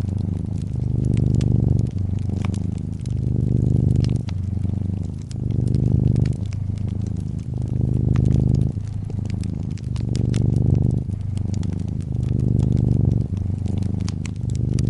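Brown tabby cat purring, a low rumble that swells and eases about every two seconds as it breathes in and out. Under it, a fireplace crackles with frequent small pops.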